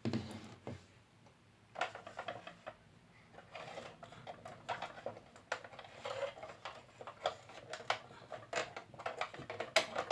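Irregular small clicks, taps and rubbing of hard plastic as soldier figures are pulled out of a 1/18 scale toy helicopter model, with a sharper click near the end.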